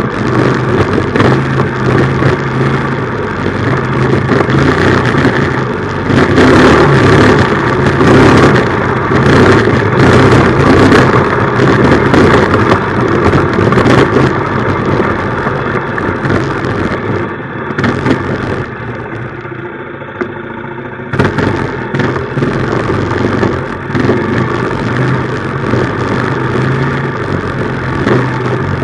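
A minibike's small engine running under way, with a steady engine note beneath a rough rush of noise. It is loudest from about a fifth of the way in to nearly halfway, eases off to a lower, quieter note past the middle, then picks up again.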